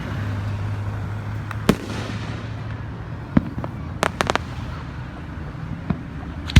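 Fireworks bursting: single sharp bangs every couple of seconds, with a quick run of four or five cracks about four seconds in, over a steady low hum of background noise.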